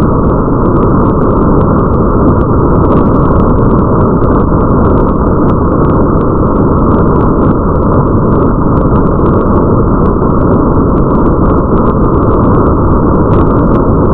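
Steady, heavily muffled rain-ambience noise. The treble is cut away and the sound is heavy in the bass, with faint scattered ticks of drops above it.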